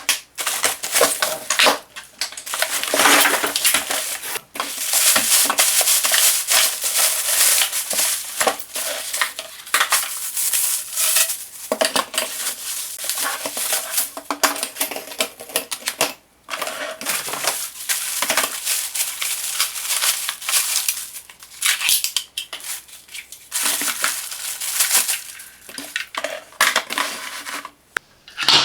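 Packaging being handled as a boxed vacuum cleaner is unpacked: cardboard and plastic wrapping rustling and crinkling in irregular spurts, with scattered sharp knocks and clicks.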